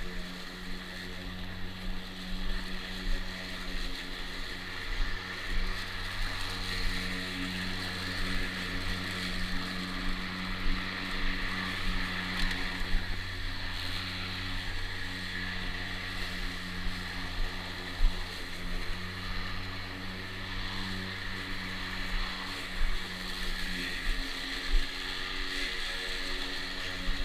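EGO battery-powered lawn mower running steadily while mowing, its electric motor and spinning blade giving a continuous hum with a higher whine over it.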